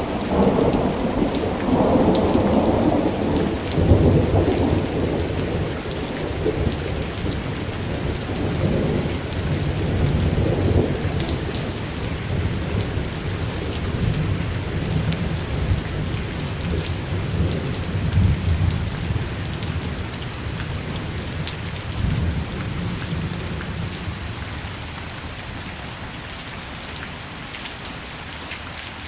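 Thunder rolling and rumbling over steady rain, loudest in the first few seconds and dying away past the middle, leaving the hiss of rain alone.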